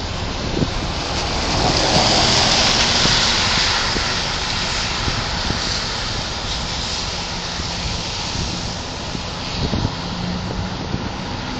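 Jet engine noise of a departing Airbus A380 on its takeoff climb: a steady rushing roar that swells about two seconds in, then slowly eases off.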